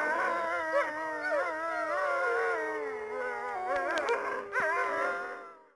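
Several wolves howling together in a chorus, with long howls overlapping: one held steady while others waver up and down in pitch. The howls fade out near the end.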